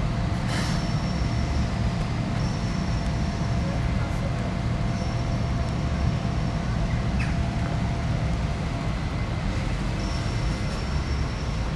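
Road traffic running past: a steady low rumble of cars and buses, with a thin high-pitched tone that comes and goes several times.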